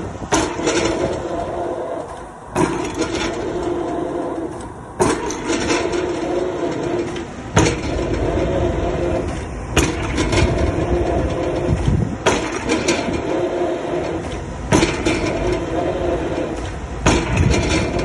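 Excavator drop hammer striking a square concrete pile, a sharp blow with a short ring about every two and a half seconds, eight blows in all, over the steady running of the excavator's engine.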